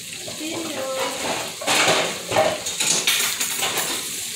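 Chicken pieces sizzling in a metal pot, with a utensil stirring and scraping against the pot, clattering most in the middle.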